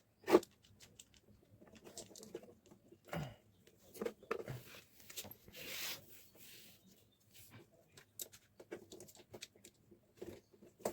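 Scattered small clicks and knocks of table-fan parts being handled while small nuts are fitted onto screws, with a longer soft scraping rustle about six seconds in.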